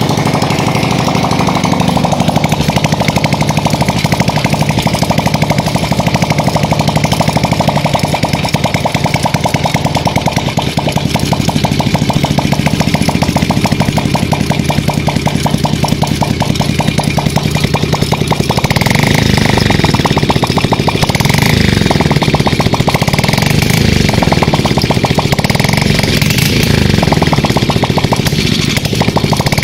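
Engine exhaust running with a fast, even pulse. From about nineteen seconds in, the note rises and falls several times.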